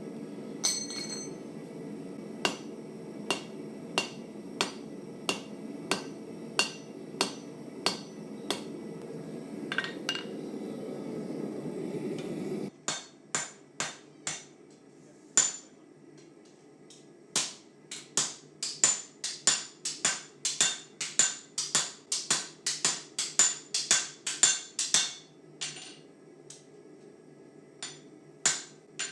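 Hand hammer striking hot 1084 carbon steel on an anvil to forge a knife blade. First comes a run of even blows about one and a half a second over a steady low rush that cuts off abruptly about halfway. After a short pause, faster blows follow at about three a second with a bright ring, then a few last strikes near the end.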